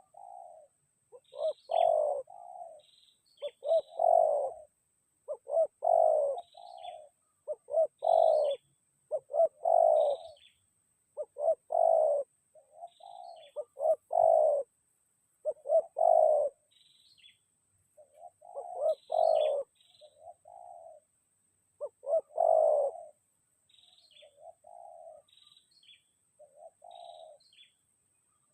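Spotted doves cooing in repeated phrases about every two seconds, fainter over the last few seconds, with small birds chirping higher up.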